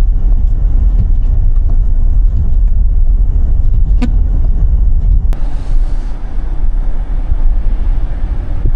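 Car driving on a snowy road: a loud, steady low rumble of tyres and engine. About five seconds in there is a click, after which a steady hiss joins the rumble.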